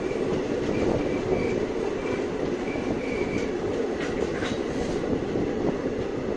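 Indian Railways passenger coach rolling along the track, heard through its open barred window: a steady rumble of wheels on rail. There are a few short, faint, high squeaks in the first half and some clicks about four seconds in.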